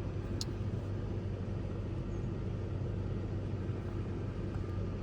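2001 Ford Ranger engine idling steadily with a new ignition coil pack fitted; it runs smoothly with no dead cylinder, the misfire cleared.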